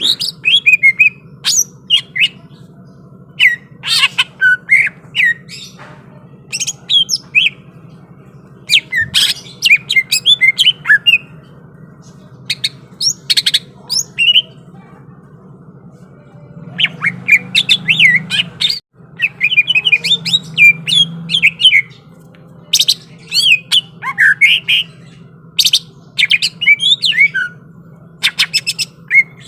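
Cucak ijo (green leafbird) singing in loud bursts of rapid, sharp chirps and squawks, phrase after phrase with short gaps, over a steady low hum.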